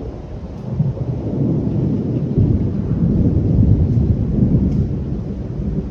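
Thunder rumbling low and long, swelling about two and a half seconds in and then slowly easing off.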